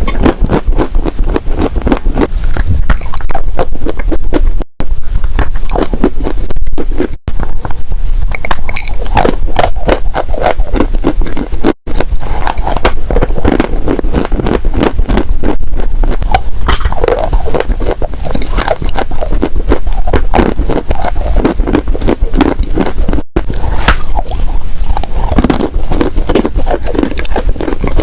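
Close-miked biting and chewing of crunchy edible clay: a dense, continuous run of crisp crackles and crunches with a low rumble beneath, broken by a few split-second dropouts.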